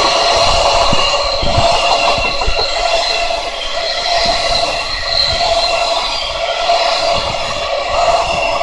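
Freight train container wagons rolling past close at speed: steel wheels running on the rails with a steady loud noise carrying several high ringing tones, and irregular low thumps as wheels cross the rail joints.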